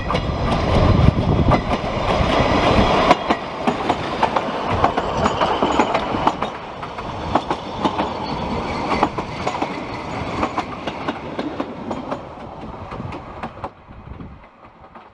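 Narrow-gauge Ffestiniog Railway train running, its wheels clicking over the rail joints in a quick irregular patter. A low rumble drops away about three seconds in, and the sound then fades steadily.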